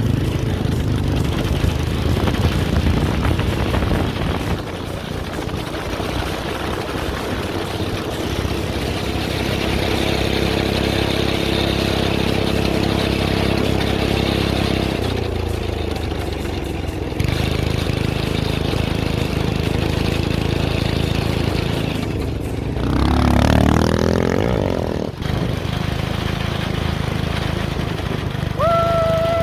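Small go-kart engine running under way, its pitch shifting as the speed changes, with a sweep up and back down about three-quarters of the way through. A steady tone starts just before the end.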